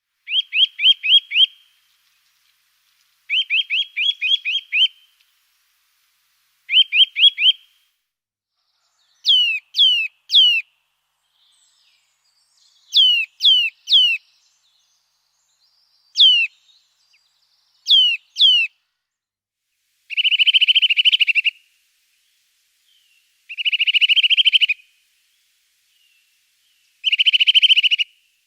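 A songbird singing in separate phrases with short pauses between them. It starts with runs of quick rising notes, then gives clear down-slurred whistles in twos and threes, and ends with three short, dense trills.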